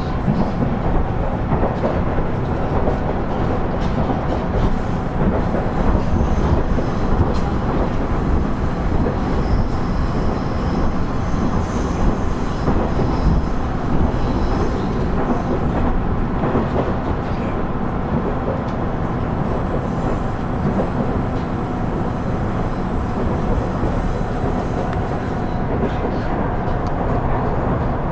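KiHa 110 series (KiHa 112) diesel railcar running along the line: a steady rumble of diesel engine and wheels on rail. Faint high-pitched tones come and go above it.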